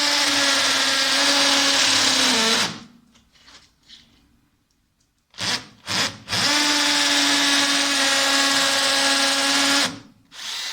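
Bosch EasyImpact 18V-38 cordless hammer drill drilling into brick and mortar in hammer mode. It makes a run of a few seconds that stops, two short blips, then a second run of about three and a half seconds, and another brief burst near the end.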